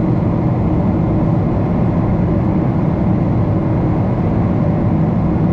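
Boeing 777-300's jet engines running, heard inside the passenger cabin as a steady low rumble that does not change.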